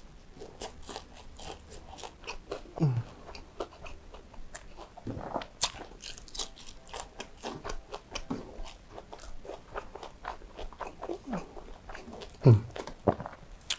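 Close-miked chewing of fried chicken, rice and a slice of fresh cucumber: a run of short, sharp wet mouth clicks and smacks with crunchy bites. A louder mouth sound comes near the end.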